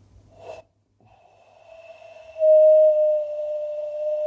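A person's practice bird call: a short breath, then one long steady whistled note that starts faintly about a second in and turns loud about halfway through.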